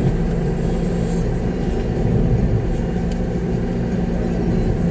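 Concrete truck's diesel engine running steadily, heard from inside the cab as a constant low drone.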